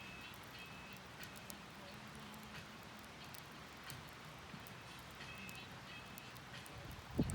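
Wood campfire crackling faintly, with scattered small pops. A few short high chirps come and go, and a low thump sounds near the end.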